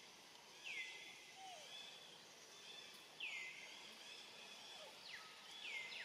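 Faint birdsong: a bird repeats a short call that swoops down in pitch and then levels off, three times about two and a half seconds apart, over a steady high background hiss.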